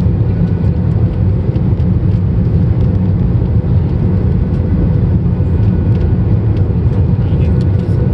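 Steady loud roar inside the cabin of an Airbus A321-232: its IAE V2500 jet engines and rushing airflow, heard from a seat behind the wing. It stays even throughout, with a faint steady hum over the low rumble.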